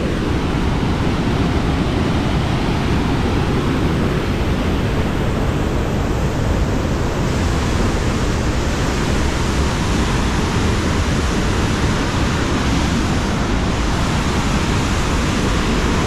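Weinia Falls, a tall waterfall, rushing with a steady, loud roar of falling water.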